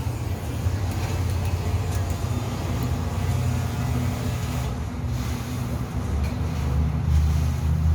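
Steady low rumble, a little louder about seven seconds in.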